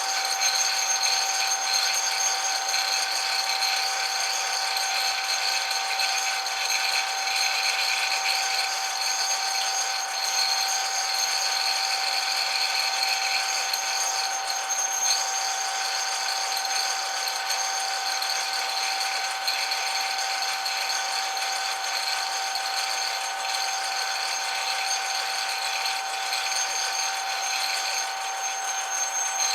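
Metal lathe running steadily, its motor and gearing giving a constant high whine with a rattle.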